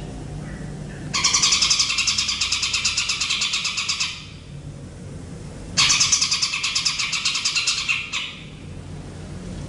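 Songbird singing two bursts of rapid, evenly repeated trilled notes, each about three seconds long, over a steady low hum.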